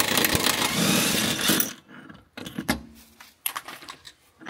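A socket wrench turning a leaf-spring nut, a dense run of rapid clicking for under two seconds, then a few separate metal clinks and knocks.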